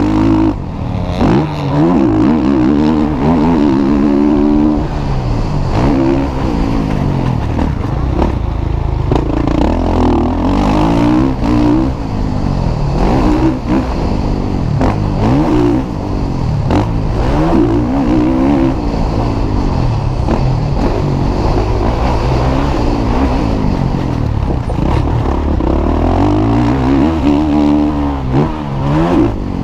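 Motocross bikes racing, their engines revving up and down again and again as they accelerate, shift and back off, with several bikes overlapping.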